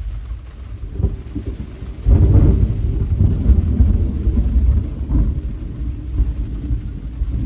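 Thunder rumbling over steady rain: a faint crack about a second in, then a loud rolling rumble breaks out about two seconds in and carries on for several seconds.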